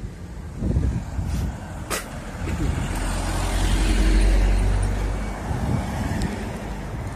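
Strong gusty wind buffeting the microphone, a deep rumble that swells to a peak about four seconds in and then eases. There is a sharp click about two seconds in.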